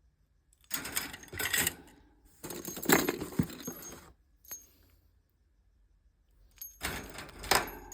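Small budgie toys and mirrors being handled, jangling and clinking in three bursts, the last near the end.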